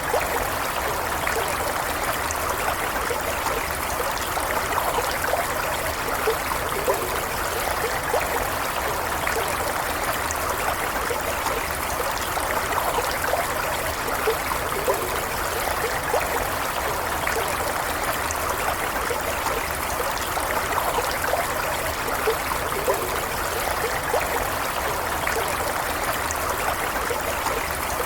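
A stream of water flowing steadily over rocks, with a constant rush and small trickling and gurgling flecks.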